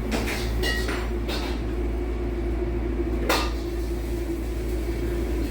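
Steady low drone of a vehicle interior on the move, with a few sharp clicks and knocks in the first second and a half and a louder knock about three seconds in.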